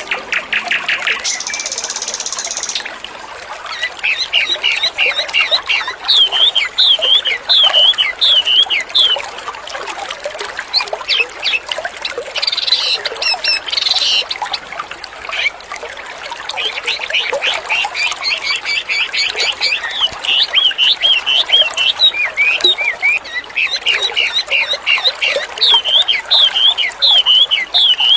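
A wambi songbird sings in fast, repeated phrases of bright, swooping whistled notes, over the steady trickle of running water.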